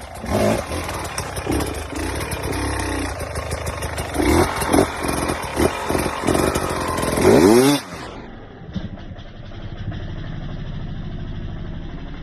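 Dirt bike engine revving in repeated blips, climbing to a high rev about eight seconds in. The sound then changes abruptly to the engine idling steadily.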